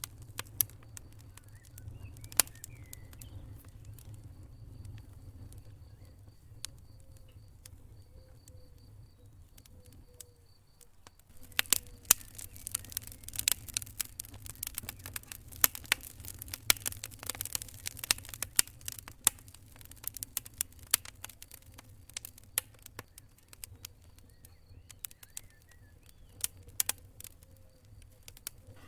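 Wood fire crackling, with irregular sharp pops and snaps over a low steady rumble of the flames; the pops come thickest in a burst about halfway through.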